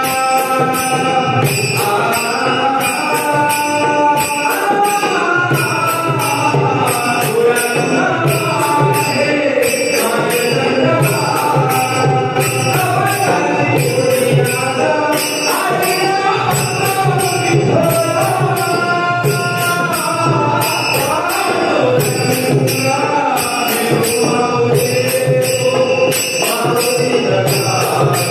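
Marathi devotional bhajan singing: a lead singer's voice winding through a melody over held accompanying tones and a steady, evenly spaced jingling beat of hand cymbals.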